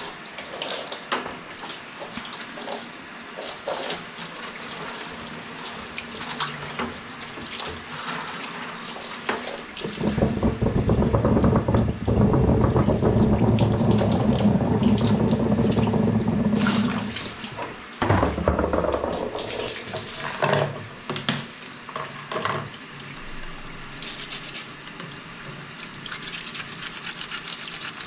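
Water running from a tap onto washing-machine parts being rinsed, a loud steady rush for about seven seconds in the middle, with scrubbing and plastic parts being handled before and after.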